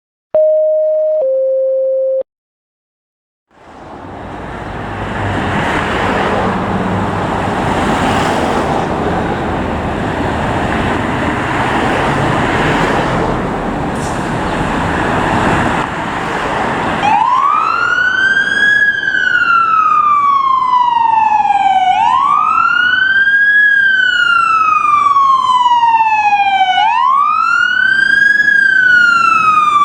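A brief two-note steady tone, higher then lower, then after a short silence the growing rumble and rush of approaching fire apparatus; about halfway through an electronic siren starts wailing, each slow rise and fall taking about five seconds.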